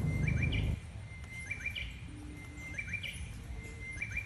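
A bird repeating a short chirping call about once a second over a quiet outdoor background. A low rumble cuts off suddenly under a second in.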